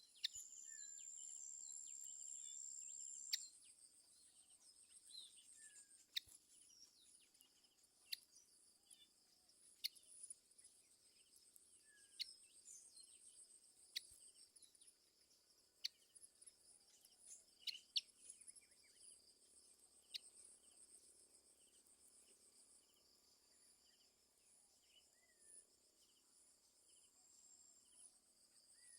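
Faint outdoor insect chorus: a steady, high, pulsing trill like crickets, with a louder high steady buzz for the first three seconds or so. Sharp clicks come about every two seconds, and brief bird chirps are scattered through.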